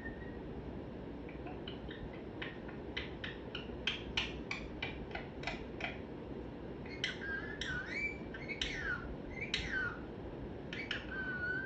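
Pet parrot making a run of soft clicks, about three to four a second, then several short chirping calls that slide up and down in pitch, with one more call near the end.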